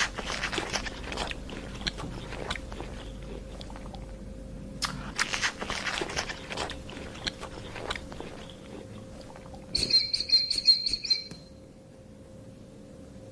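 An animal crunching and chewing food in irregular crunchy bites. Just before ten seconds in comes a quick, high-pitched trill of chirps, lasting about a second and a half.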